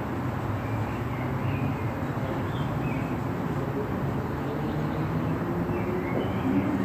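Steady traffic rumble and tyre hiss from passing road vehicles, with a few faint high chirps of birds over it.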